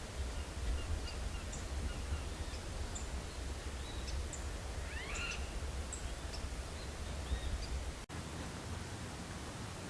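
Outdoor ambience in the bush: scattered short, high bird chirps and calls, one longer rising call about halfway through, over a steady low rumble. The sound drops out for an instant a little past eight seconds.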